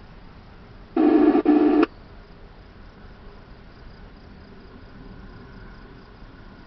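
A loud electronic tone burst from a police-fire radio scanner, just under a second long with a brief break in the middle, about a second in, like a radio data or alert tone on the channel. Behind it, a steady background hiss with the faint chirring of crickets.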